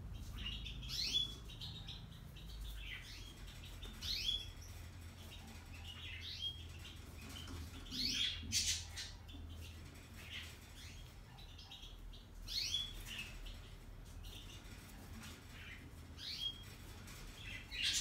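Short rising chirps like a small bird's, at uneven gaps of one to four seconds, over a steady low hum from a Hotpoint Ariston Aqualtis washer-dryer running its self-test program.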